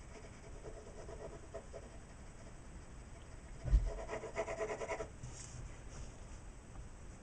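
Woodless graphite pencil shading on Bristol vellum paper: repeated scratchy back-and-forth strokes, strongest about four seconds in. A single low thump comes just before them, louder than the strokes.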